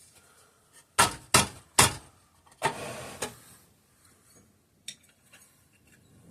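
Metal engine parts and tools being handled on a workbench: three sharp clanks in quick succession about a second in, a longer rattling clatter a little later, then a single small click.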